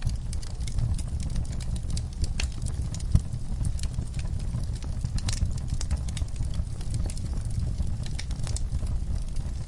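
Wood fire crackling in a fireplace: frequent sharp pops and snaps over a steady low rumble of the burning fire, with one louder pop about three seconds in.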